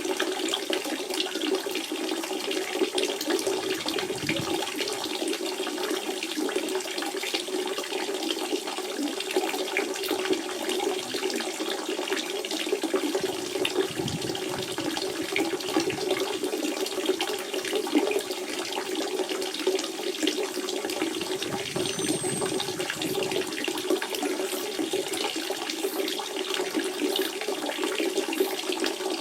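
Natural spring water running steadily: a continuous flow of small splashes over an even rushing sound, without pause.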